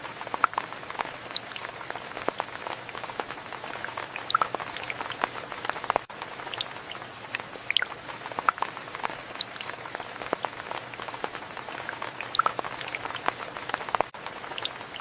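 Rain falling steadily, with many individual drops landing irregularly as sharp ticks and patters over a constant hiss.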